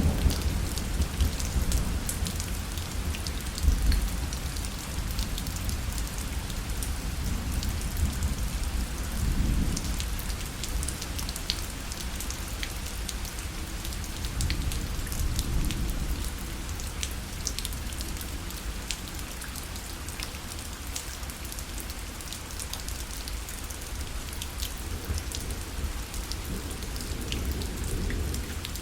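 Steady rain pattering on a parasol, with many separate drops ticking on the canopy and a low rumble rising and falling underneath.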